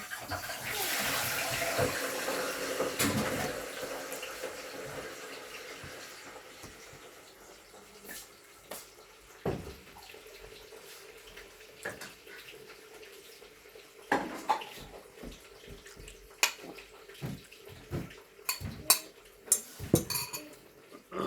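Water running for about three seconds at the start, then fading, followed by scattered light clicks and knocks of dishes.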